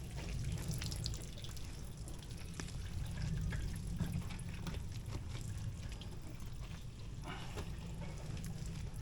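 Water trickling and dripping with small splashes during a hand car wash, over a steady low rumble.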